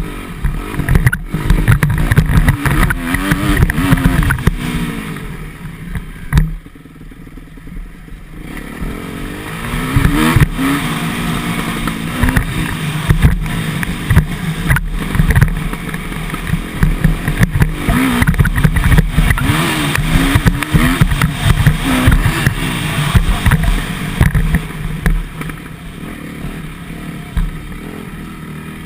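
Motocross dirt bike engine revving up and down on a track, its pitch rising and falling again and again as the throttle is worked through the gears, with scattered knocks. The engine drops back for a couple of seconds about six seconds in before picking up again.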